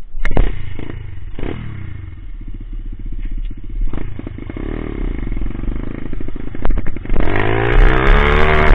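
Coolster Speedmax 125 pit bike's single-cylinder four-stroke engine running low and steady, then revving up about seven seconds in, its pitch climbing. Several sharp knocks and rattles from the ride.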